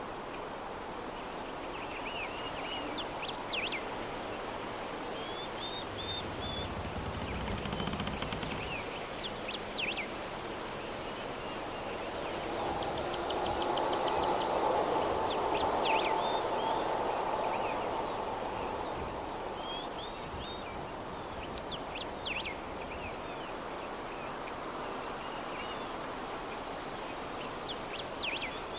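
Soft steady breeze that swells for a few seconds around the middle, with birds chirping outside at intervals in short quick runs of high notes. A brief low rumble comes in about a quarter of the way through.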